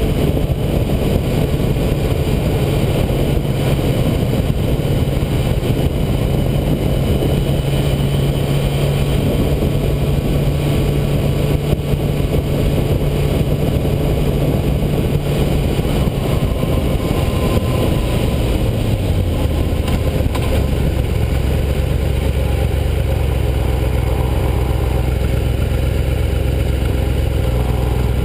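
Yamaha YZF-R6 inline-four engine running steadily under way, with wind rush on the onboard microphone. About two-thirds of the way through, the engine note drops to a lower steady pitch as the revs fall.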